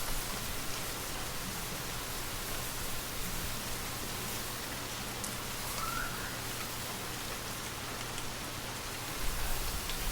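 Gentle, steady rain falling, with a low rumble of wind coming up about nine seconds in.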